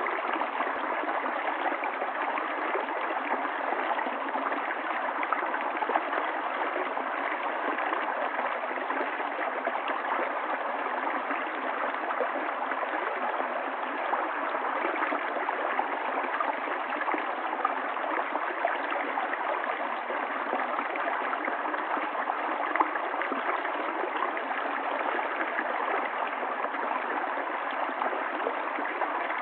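Running water of a stream flowing steadily, an even, unbroken rush.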